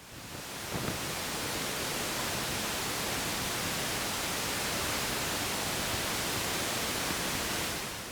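Typhoon wind and heavy rain making a steady, dense rushing noise that fades in at the start and fades out near the end.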